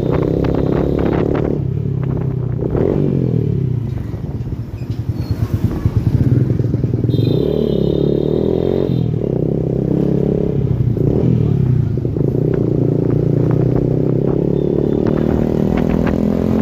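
Yamaha R15 V2's single-cylinder engine running through an aftermarket exhaust, revved up and held. About three seconds in, the revs drop to an uneven, lumpy idle, then rise again about six seconds in and stay up.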